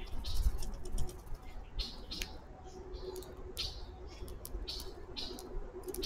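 Wild backyard birds calling in short, sharp chirps, a few at a time, with wings flapping close by near the end.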